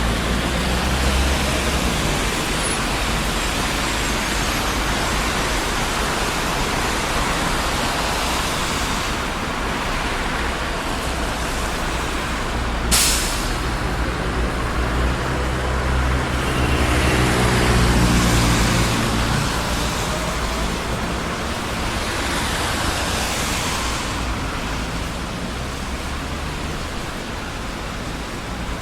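Steady traffic noise of a busy city street: a continuous rush of tyres and engines. A single sharp knock sounds about thirteen seconds in, and a few seconds later one vehicle passes close with a louder engine note.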